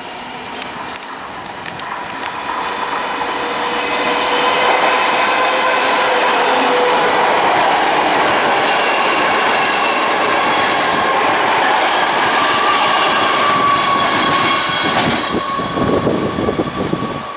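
Class 315 electric multiple unit running through at speed. A rushing wheel-on-rail noise builds over the first few seconds and holds, carrying several steady whining tones. It fades near the end with a few clacks of the wheels over rail joints.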